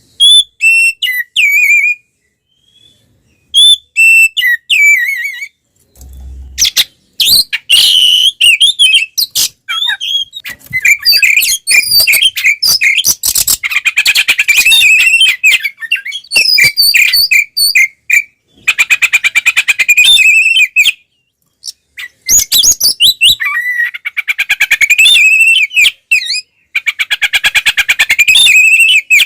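Oriental magpie-robin (kacer) singing loudly in full, agitated fighting-mode song. Varied whistled phrases alternate with fast rattling trills, broken by a few short pauses.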